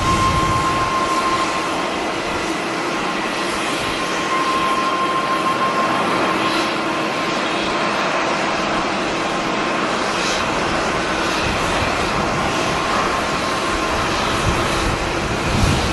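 Jet airliner engines running, heard as a steady rushing noise with a steady high whine. A deeper rumble at the start eases off about a second and a half in.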